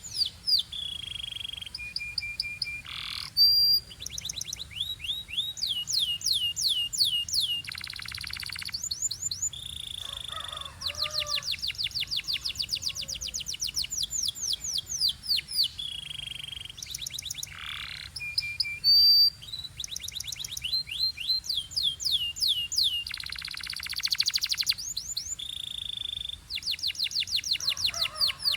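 Belgian canary singing a long song of rapid rolling trills and held whistled notes, with a few short loud notes. The same run of phrases comes round again about halfway through.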